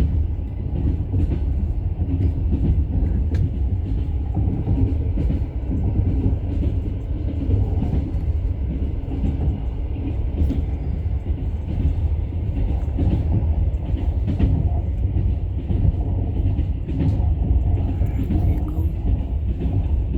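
Steady low rumble of a moving vehicle, with scattered small knocks and rattles.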